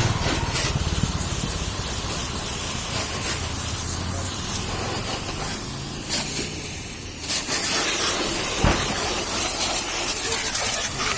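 High-pressure washer spraying water in a steady hiss, with the pump humming low underneath. The spray thins out for about a second midway, and there is one sharp knock later on.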